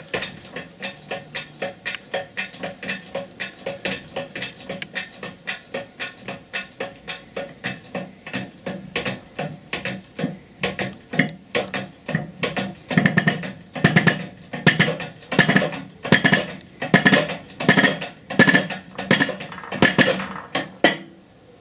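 Steady run of hammer taps on metal, about three a second, driving a front hub bearing or oil seal into an MGA hub; the blows grow louder about halfway through.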